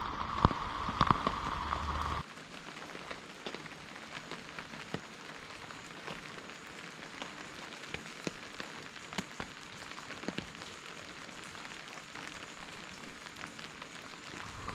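Steady rain falling, with many individual drops ticking sharply on a surface. A louder stretch of a different sound cuts off suddenly about two seconds in.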